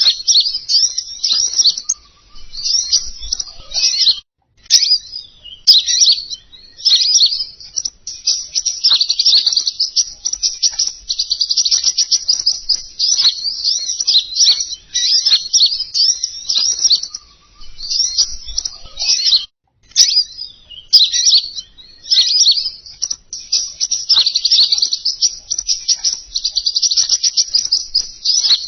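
Fast, high twittering song of the songbird sold as 'King Konin', a continuous string of tightly packed chirps with two brief breaks, from a recording used as a lure call. A few sharp clicks come in around the breaks.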